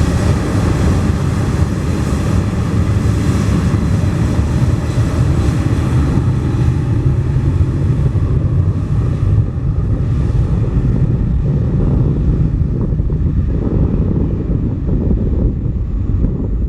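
Jet engines of an Airbus A330-300 rumbling as it climbs away after takeoff, with wind buffeting the microphone. The higher part of the engine noise dies away from about six seconds in, leaving a low rumble.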